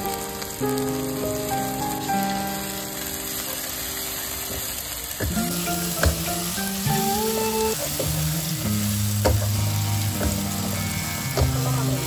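Sliced onions, tomatoes and garlic sizzling in hot oil in a nonstick pot while a wooden spatula stirs them, knocking against the pan a few times in the second half.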